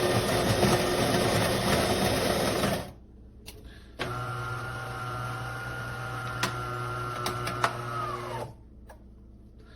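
De'Longhi Magnifica Start espresso machine's built-in burr grinder grinding whole beans for about three seconds. After a second's pause comes a steadier, quieter motor hum with a few clicks for about four seconds as the machine moves on to brewing, then it stops.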